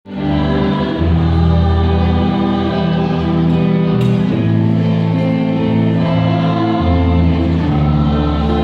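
Choir singing a hymn with instrumental accompaniment, held notes over a steady bass.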